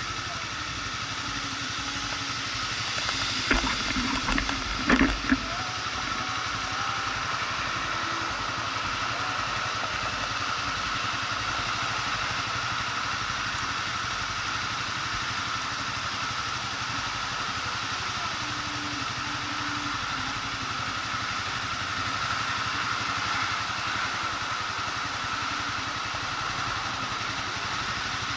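Motorcycle engine running steadily, heard from on board the bike. A few sharp knocks or rattles stand out about three to five seconds in.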